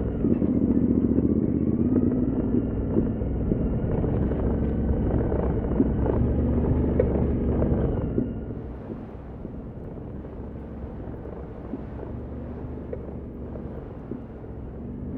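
Adventure motorcycle engine running while riding a trail, loud at first and then quieter from about halfway through.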